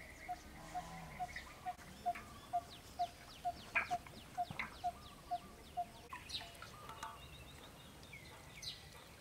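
Birds calling: one evenly repeated note about twice a second that stops about six seconds in, over short high chirps.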